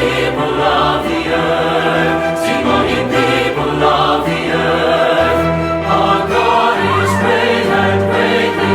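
Choir singing a worship song with instrumental accompaniment and a steady bass line.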